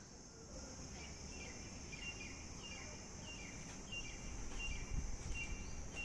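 Outdoor ambience: a steady high-pitched insect drone, with a bird repeating a short call of two quick descending notes about one and a half times a second from about a second in. A low rumble grows toward the end.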